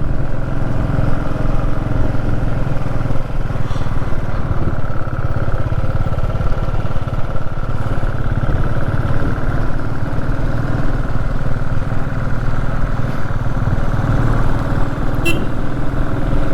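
Motorcycle engine running steadily under way, pulling a fully loaded touring bike uphill.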